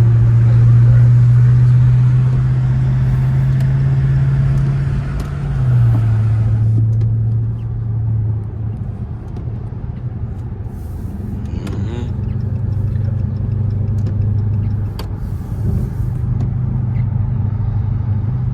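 Dodge Charger R/T's V8 engine droning steadily while driving, rising slightly in pitch and then stepping down about five seconds in, as in a gear change.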